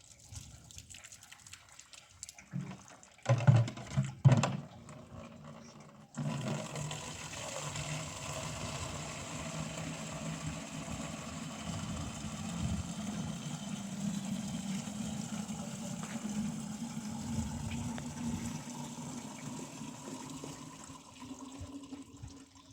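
A few loud knocks, then water running steadily for about sixteen seconds, its low tone rising slightly near the end before it stops suddenly.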